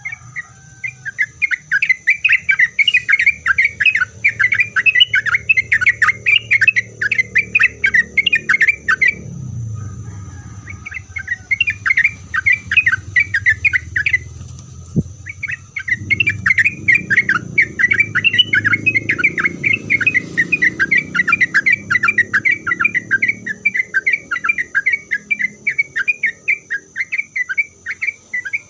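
Sooty-headed bulbul (trucuk) singing a rapid, continuous run of chattering notes, breaking off briefly twice before carrying on. A steady high-pitched whine runs underneath.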